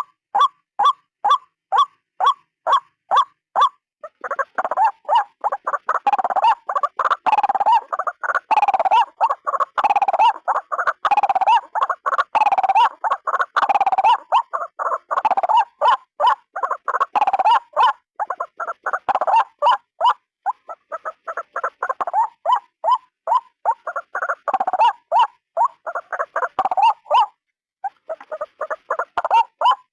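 White-breasted waterhen calling: evenly repeated notes, about two and a half a second, break about four seconds in into a faster, louder, jumbled run of croaking calls, with a short pause near the end.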